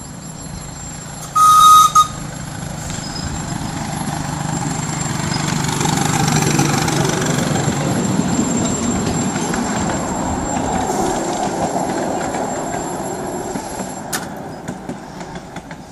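A miniature railway train: a short, loud toot of its whistle or horn with a brief second blip, then the train running past, its rumble swelling and fading away, with a sharp click near the end.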